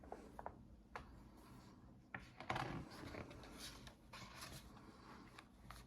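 Faint paper rustling with a few light taps: a picture book's page being turned.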